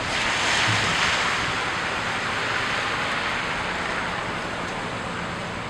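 City street traffic in a snowstorm: a steady hiss of tyres on wet, slushy road that swells about a second in and then slowly eases.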